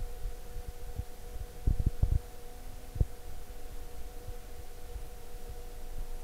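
Faulty recording: a steady electrical hum under irregular dull low thumps, the loudest a cluster just before two seconds in and a single one at three seconds.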